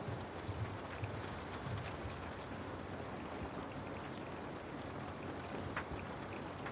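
Steady rain, a dense even hiss with scattered louder drops ticking and tapping against a window.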